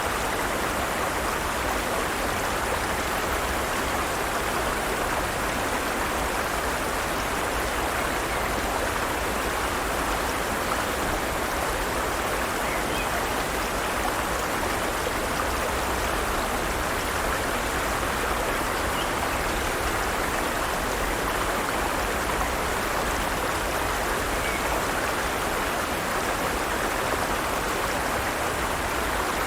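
Forest stream running steadily over rocks: a continuous, even rush of water, strongest in the middle range, with no pauses or distinct splashes.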